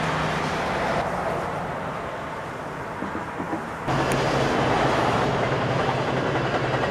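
Road traffic passing on a highway, then, after a sudden cut about four seconds in, an Amtrak Pacific Surfliner train rolling past with a low steady hum under the noise of the cars.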